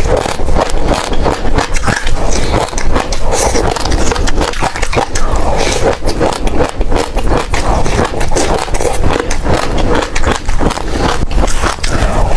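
Close-miked chewing of passion fruit seeds: a dense, irregular run of crisp cracks and crunches as the seeds are bitten and crushed between the teeth.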